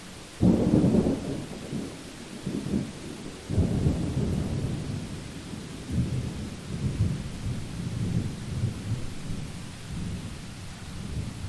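Thunder rumbling over steady rain. It starts suddenly about half a second in, then rolls on in low waves that swell again twice and fade near the end.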